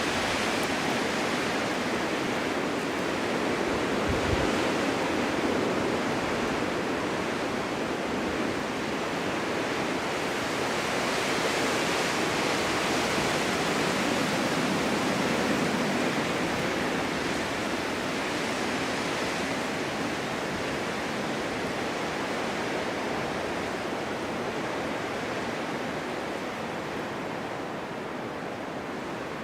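Snowstorm wind blowing steadily, a dense even rush that swells a little around the middle and eases off slightly toward the end.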